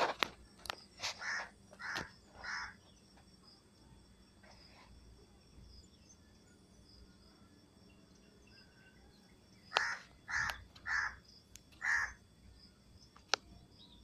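A bird calling outdoors at dawn in two runs of short repeated calls, three or four in the first couple of seconds and four more about ten seconds in. A few sharp clicks and a faint steady high buzz sit under them.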